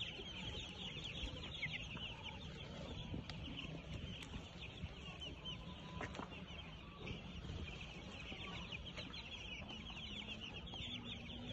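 A flock of chickens calling all at once: a constant dense chatter of short high peeps and clucks from many birds.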